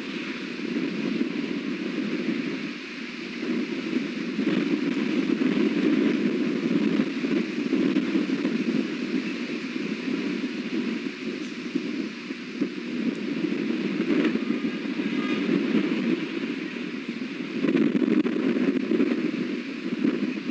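Strong wind buffeting the osprey nest-cam microphone, a rushing noise that swells and eases every few seconds.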